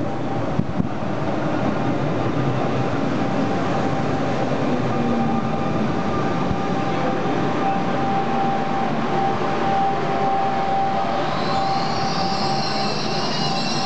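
Trentino Trasporti Alstom ETi electric railcar rolling into the station along the platform, its wheels and running gear giving a steady rumble with a mid-pitched whine. About eleven seconds in, a high-pitched wheel and brake squeal starts as the train slows to a stop.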